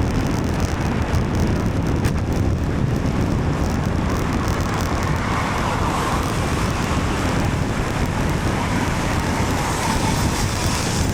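Steady wind noise on the microphone of a moving bicycle, mixed with car traffic on a wet road in the rain. A slightly brighter swell of traffic noise comes in about four seconds in.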